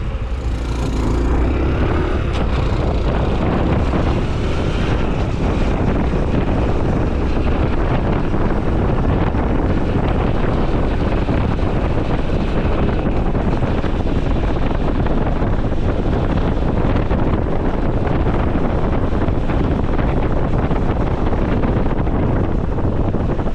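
Honda CT125 Hunter Cub's single-cylinder engine and exhaust running steadily under way, mixed with wind rush over the helmet-mounted microphone. A short higher hiss passes about a second in.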